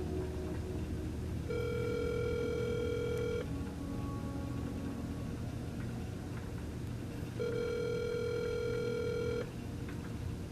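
Telephone ringback tone of an outgoing call, heard through the phone: two steady rings about two seconds long, six seconds apart, the call not yet answered.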